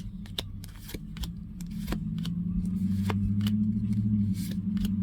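Trading cards being handled and flipped, with a string of short papery clicks and snaps. From about two seconds in, a low steady engine drone grows louder and becomes the loudest sound.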